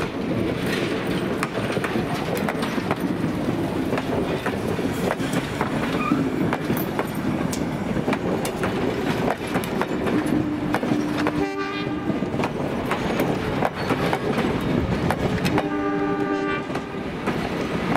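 Vintage passenger train cars rolling slowly past at close range, their wheels clicking over the rail joints. A train horn sounds twice, briefly about two-thirds of the way through and longer near the end.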